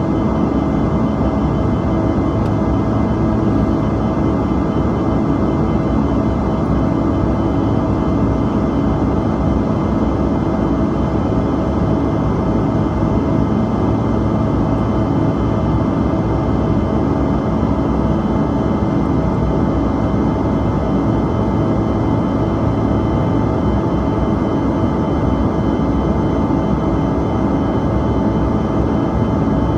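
Steady in-flight cabin noise of a Bombardier CRJ-200 regional jet: the even drone and rush of its rear-mounted GE CF34 turbofans and the airflow, with faint steady whining tones over it and no change throughout.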